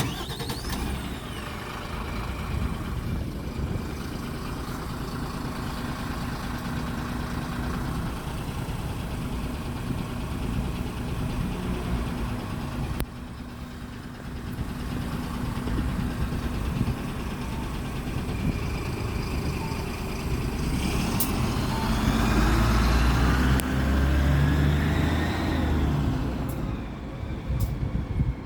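Mitsubishi Fuso Aerostar city bus's diesel engine starting and running at idle. About 21 seconds in it grows louder and rises in pitch, then falls back, with a few sharp clicks.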